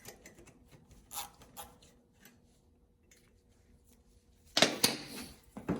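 Metal tools and parts being handled: a few light clicks, then a louder metallic clatter about four and a half seconds in and another short knock near the end.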